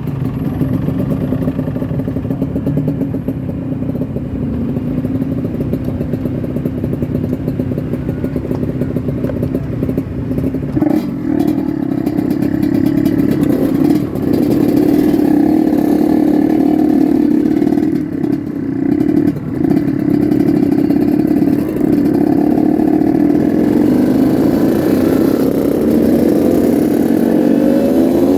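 Yamaha RX-King 135 cc two-stroke single-cylinder motorcycle engine running under way: a steady engine note that grows louder about eleven seconds in, dips briefly a few times in the middle, and rises in revs near the end.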